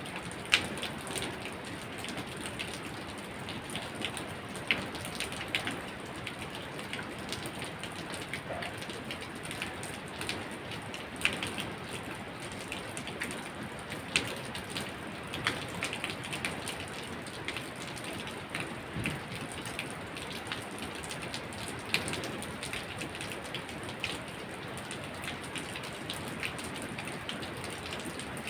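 Steady rain falling, a continuous hiss with many irregular sharp drip and drop taps, a few of them standing out louder.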